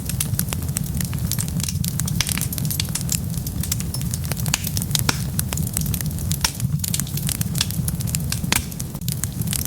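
Wood fire burning with a steady low rumble and frequent sharp crackles and pops throughout.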